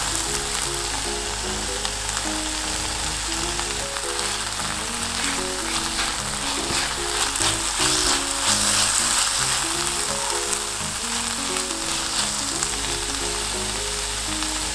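Diced Spam and kimchi sizzling in a frying pan as they are stirred, the frying getting louder for a few seconds in the middle, over light background music.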